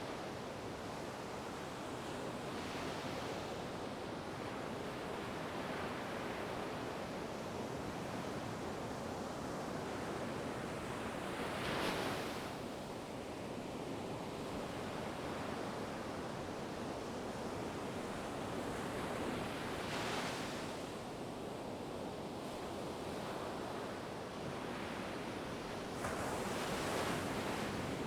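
Ocean waves breaking on a shore: a steady wash of surf with three louder swells as waves crash, about 12 s, 20 s and 26 s in.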